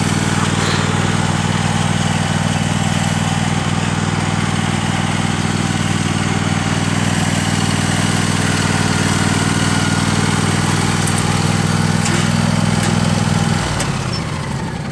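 Tractor engine running steadily at a constant speed, dropping away about a second before the end.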